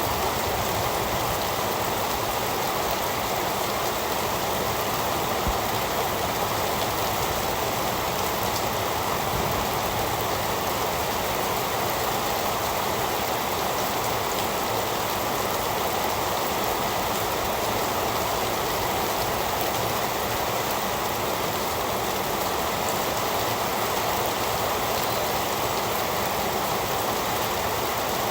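Heavy, steady rain falling, a dense even hiss with no let-up or thunder.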